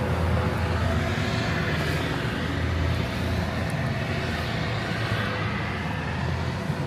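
Steady low rumble of blizzard wind buffeting the microphone, with a faint steady hum underneath.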